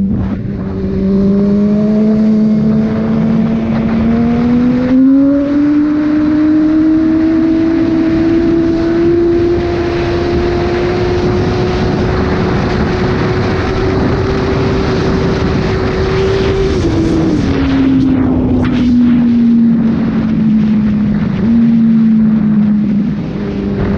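Sport motorcycle's inline-four engine pulling on the road, its pitch climbing slowly as it accelerates through most of the stretch, then falling as the throttle closes about two-thirds through. Near the end there is a short jump in pitch before it falls again. Wind rushes on the microphone throughout.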